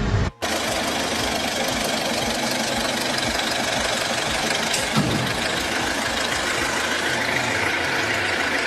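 An engine running steadily, with a single brief knock about five seconds in.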